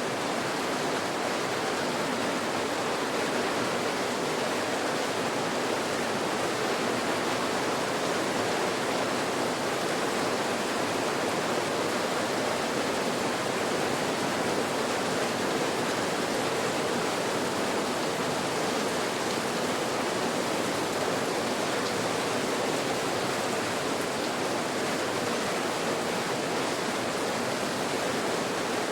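Steady rain white noise: an even, unchanging hiss with no separate drops, thunder or changes in level.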